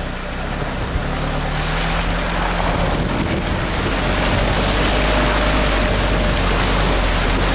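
Motor vessel under way: a steady engine drone mixed with rushing water and wind on the microphone.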